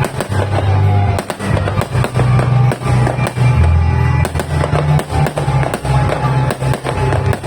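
A 5,000-shot fireworks cake firing a rapid, continuous volley of bangs, several a second. Music with a heavy bass line plays underneath.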